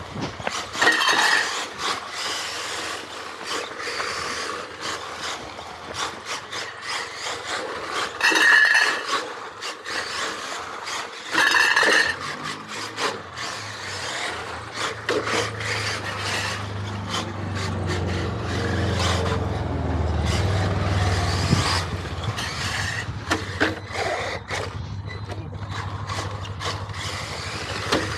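Radio-controlled Xray XB4 rally car on rally block tyres driving a pavement stage at speed. Tyres scrape and scrabble over the surface, with short louder bursts about a second, eight seconds and twelve seconds in, and a low hum in the second half.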